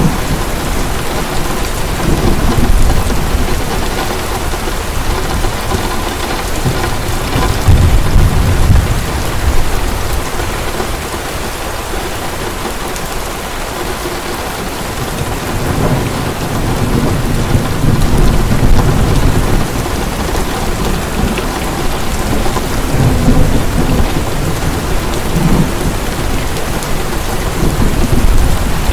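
Heavy rain falling steadily, with thunder rumbling in low swells several times, the strongest about eight seconds in, and a quieter lull in the middle.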